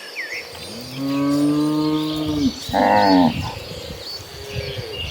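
Cows mooing: a long low moo starting about a second in, then a louder, higher call about three seconds in and a fainter moo after it, with birds chirping.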